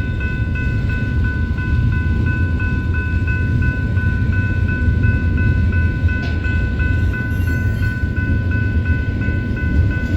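Freight train rolling past: a loud, steady low rumble of railcars on the rails. Over it runs a high, evenly repeating ringing tone.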